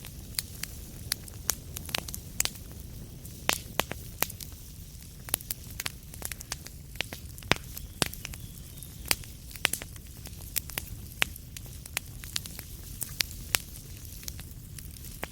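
Wood fire in a fireplace crackling, with sharp irregular pops several times a second over a steady low rumble of the flames.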